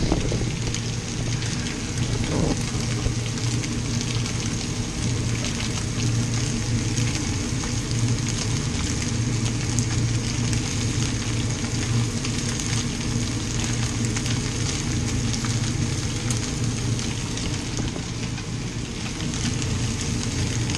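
Breaded zander pieces frying in a hot pan: a steady crackling sizzle, with a steady low hum underneath.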